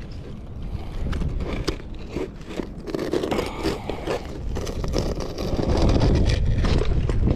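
Scraping and scattered light clicks of asphalt shingles being handled and worked on a roof. A low rumble grows louder in the last couple of seconds.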